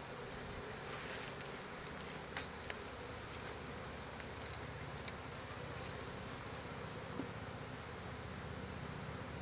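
Honeybees buzzing steadily in a mass around an opened colony, with a few faint light clicks from handling comb and frames.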